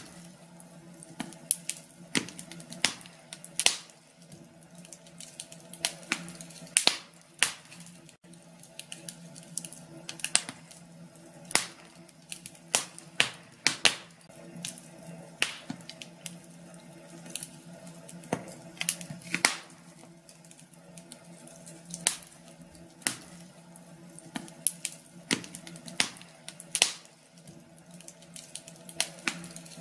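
Wood fire burning in a fireplace, crackling with irregular sharp pops, sometimes several in quick succession, over a faint low hum.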